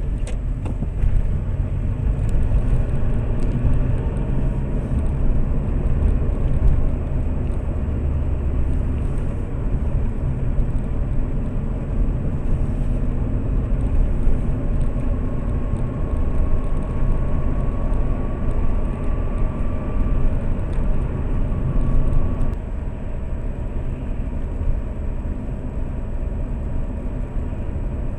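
Lada Priora's engine and tyre noise heard from inside the cabin while driving, a steady low rumble. A faint thin whine comes in around the middle, and the rumble eases slightly about three-quarters of the way through.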